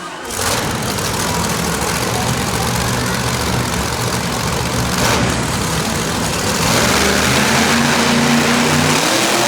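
Hot Wheels 5 Alarm monster truck's engine revving hard through a wheelie run: it comes up loud about half a second in, climbs higher in pitch and volume over the last few seconds, then drops away just before the end.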